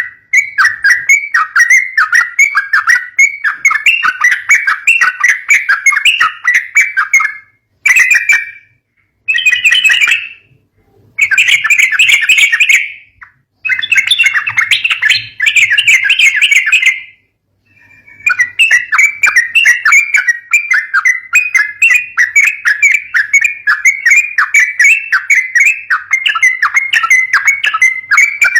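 Sooty-headed bulbuls (trucukan) giving rapid, dense chattering calls. The calls cut off abruptly several times, leaving short silences, mostly through the middle of the stretch.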